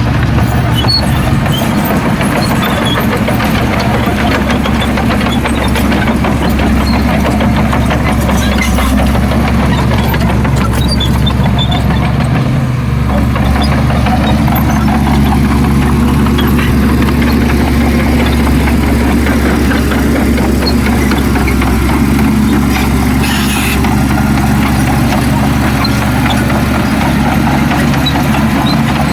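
Heavy diesel engine of earthmoving machinery running steadily at a constant, loud level.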